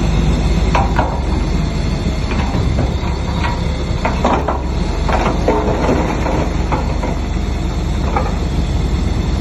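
Heavy diesel construction machinery running with a steady low rumble, with irregular metallic clanks and short squeaks throughout.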